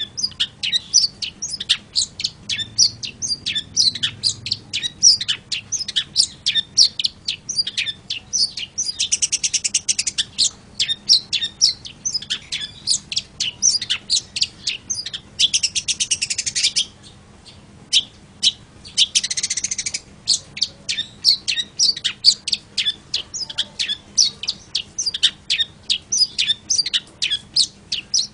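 Long-tailed shrike (cendet) singing: a fast, continuous string of sharp, high chirps, broken three times by a second or two of rapid, buzzy rattle.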